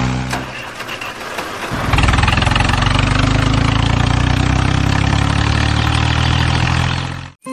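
Engine running steadily with a low, even hum, broken by an edit cut early on. A noisier, weaker stretch follows, then the steady engine hum resumes about two seconds in and stops abruptly near the end.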